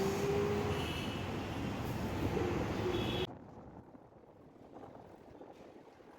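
Road traffic noise with a steady whine and a few short high beeps. It cuts off abruptly about three seconds in to a much quieter hiss.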